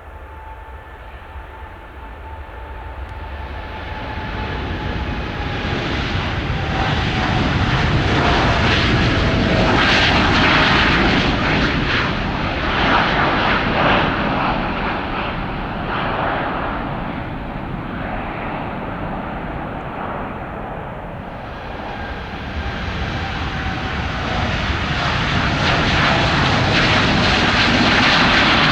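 Boeing 787 airliners taking off one after another. The first jet's engines at take-off power swell to a peak and ease away with a slowly falling whine, then a second jet's engines build up again in the last few seconds.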